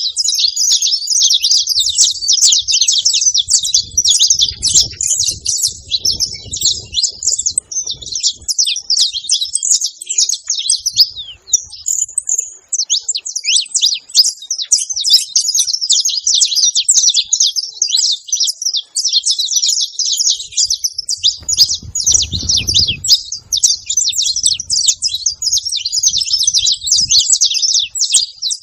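Saffron finch singing loudly, a fast and almost continuous run of high chirping notes, with one short break about twelve seconds in.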